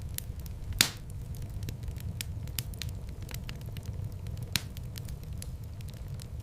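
Wood fire in a fireplace crackling: many small snaps over a steady low rumble, with one loud pop about a second in and another sharp pop later on.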